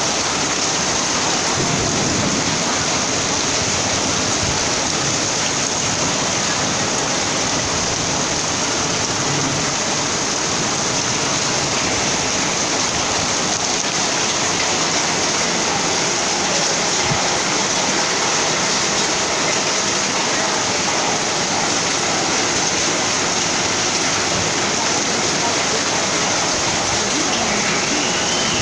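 Heavy rain falling steadily, with a constant rush of water running off.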